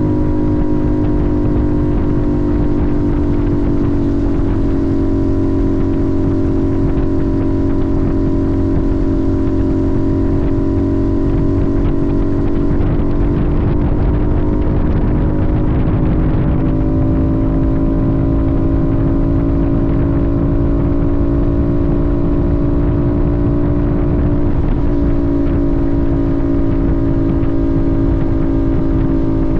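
Sportbike engine running at steady cruising revs, a constant drone whose pitch sags slightly about halfway through and then creeps back up. A dense low rumble sits underneath.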